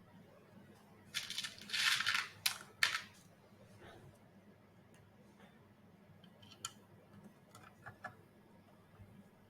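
Small robot parts being handled on a work surface: about two seconds of scraping and rustling with sharp clicks near the start, then scattered light clicks and taps.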